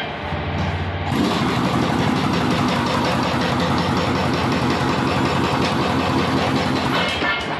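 An engine, likely the one being coupled to the generator, is started about a second in, runs with an even rapid pulse for about six seconds, then cuts off abruptly near the end.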